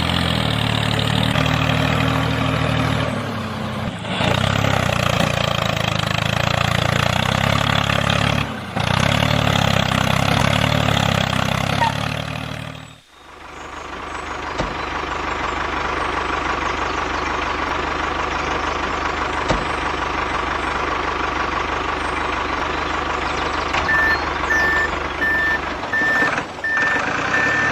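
Heavy vehicle engine running, cut into segments, with a reversing beeper pulsing near the end.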